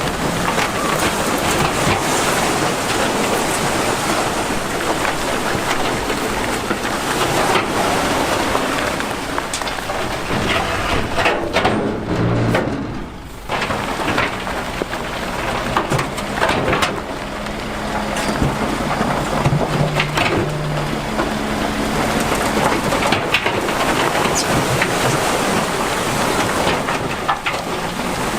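Loose rock tumbling and clattering, a dense run of knocks and scraping, as heavy earthmoving machinery moves it, with a diesel engine's low steady note coming up partway through.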